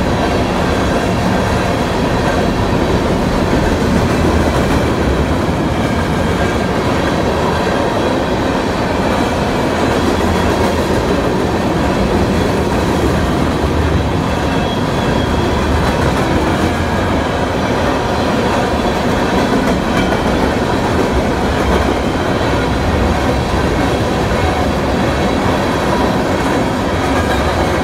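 BNSF freight train's covered hopper cars rolling past: a steady rumble of steel wheels on rail with clickety-clack, and a few faint steady high-pitched tones over it.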